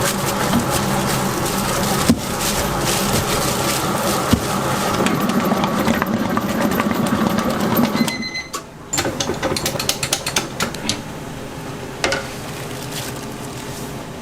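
A machine motor runs steadily with a low hum and stops about eight seconds in. Light clicks and taps follow.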